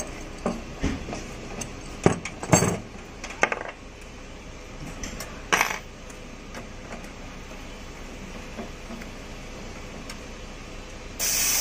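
Metal clinks and knocks of tools on an air conditioner's refrigerant pipe fittings as the flare nut connections are tightened. Near the end a loud steady hiss starts suddenly.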